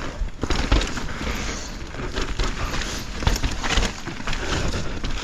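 Mountain bike riding over rough, wet trail: tyres rolling on dirt and roots with frequent knocks and rattles from the bike, over a steady low rumble of wind and handling noise on a bike-mounted action camera.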